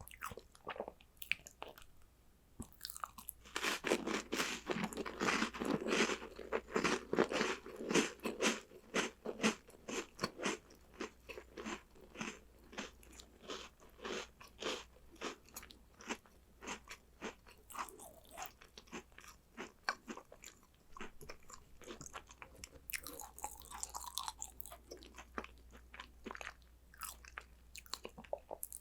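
A person biting and chewing crunchy chocolate snacks: rapid crunches, loudest and thickest from about four to ten seconds in, then steadier, sparser chewing.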